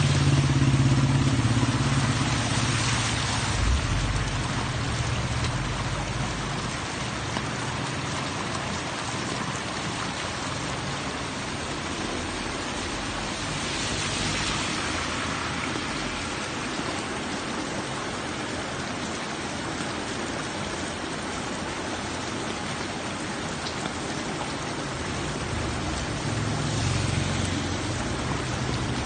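Steady rain falling. A vehicle engine rumbles past at the start, and another comes up near the end.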